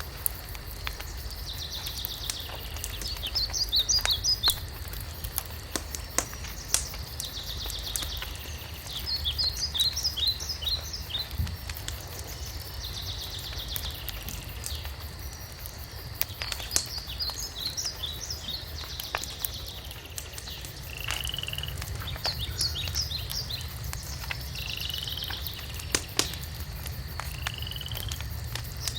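Wood fire crackling with scattered sharp pops over a low steady rumble, while a songbird repeats the same short song every few seconds.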